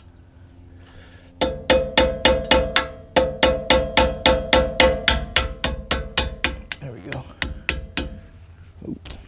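Rapid metal-on-metal tapping, about four strikes a second, each with a short ringing tone, for roughly seven seconds, growing weaker near the end.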